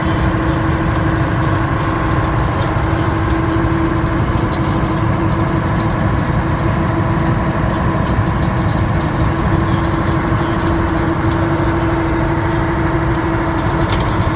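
Heavy diesel truck engine running steadily, a constant low rumble with a steady hum.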